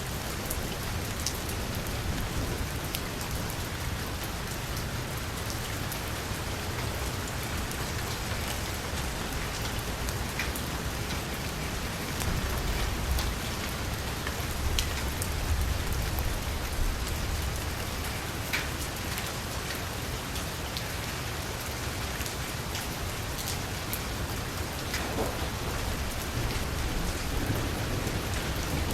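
Heavy rain on a vehicle's roof and window: a steady hiss with individual drops clicking sharply. A low rumble of thunder swells about halfway through and builds again near the end.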